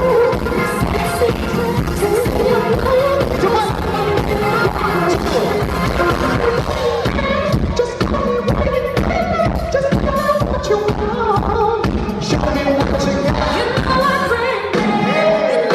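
Korean pop song with a voice singing over a steady dance beat.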